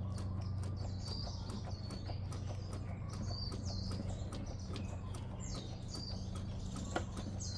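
Birds chirping: short, high, falling chirps, several in the second half, over a steady low hum and faint, evenly spaced ticking.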